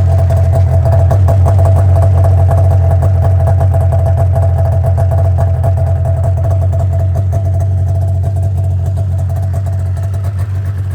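1989 Polaris Indy 500 snowmobile's two-stroke twin engine idling steadily. A higher tone in its sound fades out about three-quarters of the way through, and the level eases slightly.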